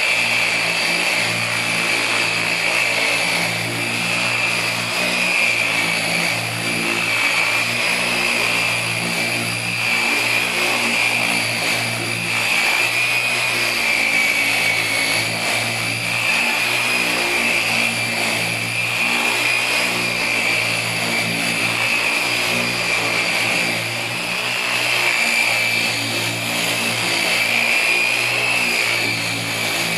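Electric car polisher running steadily on the paint with a steady high whine, polishing out swirl marks and light scratches.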